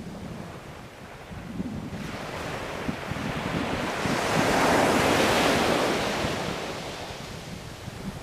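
Ocean surf: a wave swells from about two seconds in, breaks loudest around the middle, and washes away toward the end.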